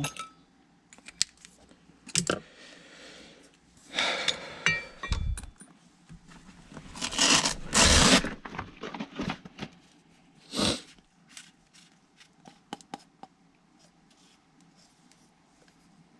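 Hand tools and metal parts being handled while working on a furnace: scattered clicks and clinks, with louder scraping and rustling about four seconds in and again around seven to eight seconds in.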